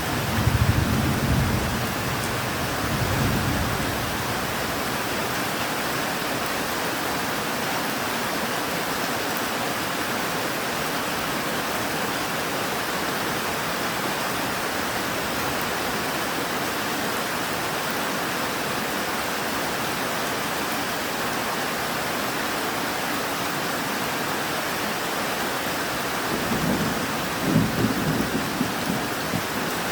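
Steady rain falling, with a low rumble of thunder fading out over the first few seconds and another rolling in near the end.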